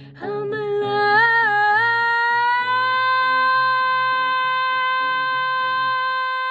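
Female singer holding a long wordless high note over a soft low accompaniment. The note wavers at first, steps up twice, and is held steady from about two seconds in; the accompaniment drops out near the end.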